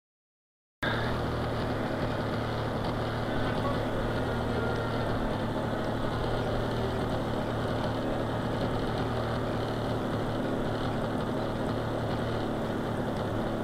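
RC model plane's engine running steadily at low throttle as the model taxis, starting abruptly about a second in.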